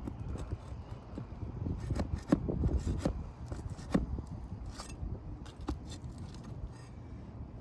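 Scraping and sharp clicks of a metal tool working against asphalt shingles, prying under the tabs to get at roofing nails, with the loudest clicks about two and four seconds in.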